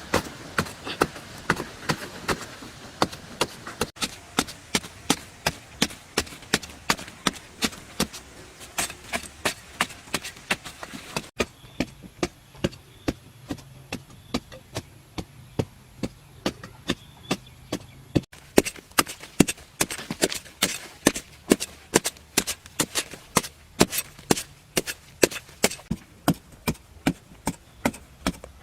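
A hand tool striking over and over in a steady rhythm, about three strokes a second, like chopping or hacking at wood or earth. The run is broken by two abrupt cuts, after which the strikes carry on.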